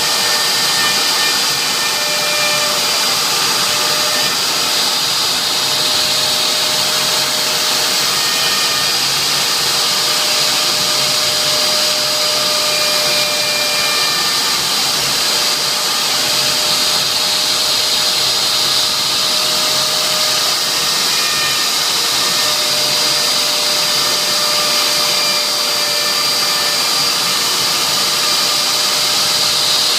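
CNC machine engraving a signature board: its spindle runs with a steady high whine over an even hiss, while shorter tones come and go every few seconds as the machine moves.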